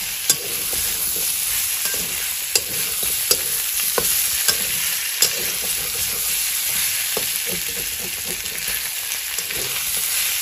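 Pork and potato pieces sizzling steadily as they fry in oil in a metal kadai, stirred with a metal spatula that scrapes and now and then clicks sharply against the pan.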